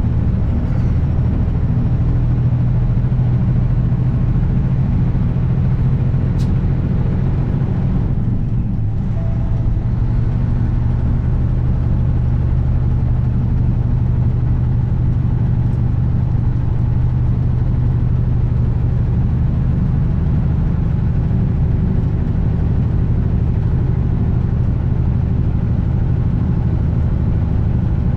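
Kenworth W900 semi truck's diesel engine running steadily under way, a constant low drone, with a short dip in the sound about eight seconds in.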